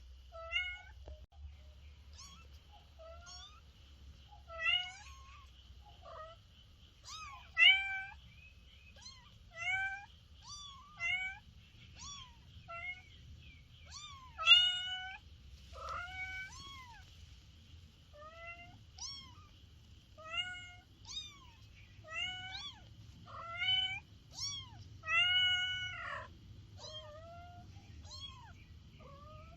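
Kitten meowing over and over: short, high calls that rise and fall, about one a second, some much louder than others. A faint steady high-pitched buzz runs behind them.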